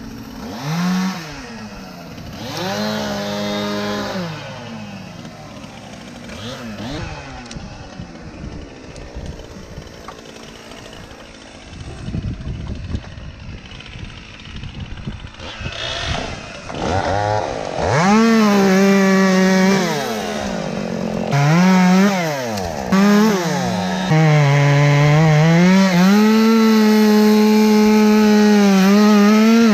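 Two-stroke chainsaw revved in short blips with quieter idling between, then held at high revs through the second half. Its pitch dips and recovers as it cuts into the elm wood.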